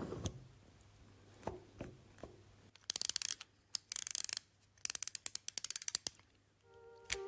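A ratcheting mechanism clicking rapidly in three short bursts, after a few separate knocks of tools on metal. Piano music comes in near the end.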